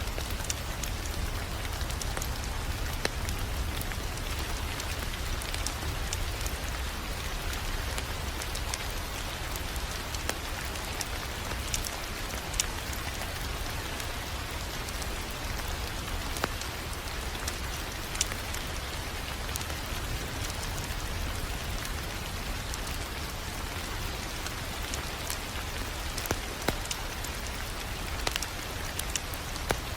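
Crackling wood fire: a steady hiss with a low rumble underneath and scattered sharp pops and snaps.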